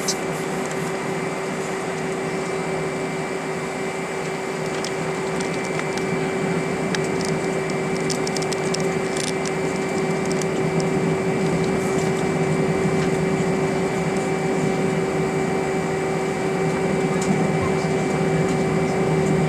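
Steady airliner cabin noise inside an Airbus A320: air rushing from the ventilation with a constant whine, growing slightly louder over the second half. A few faint clicks around the middle.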